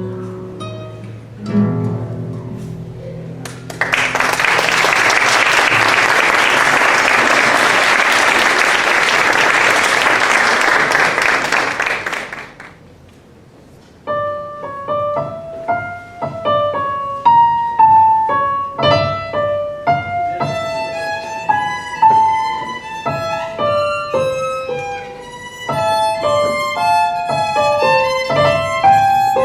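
The last notes of a piece die away, the audience applauds for about eight seconds, and after a short pause a violin with piano accompaniment starts a new piece.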